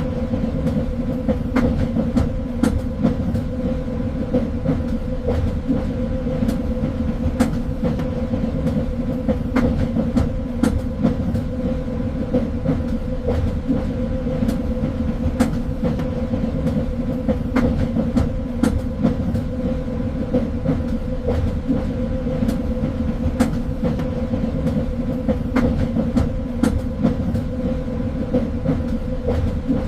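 Train running along the rails: a steady rumble with a constant hum, broken by frequent irregular sharp clicks and knocks.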